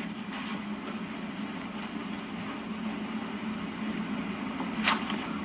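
Briefing-room tone: a steady low hum, with a soft click about half a second in and another shortly before the end.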